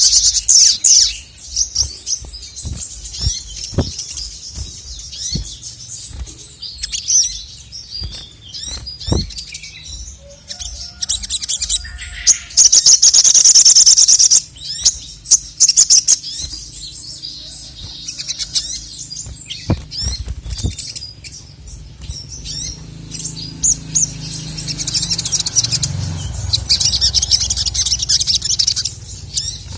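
Male sogon (sogok ontong) sunbird singing hard: rapid, high, chattering trills and sharp calls in bursts, loudest about halfway through and again near the end.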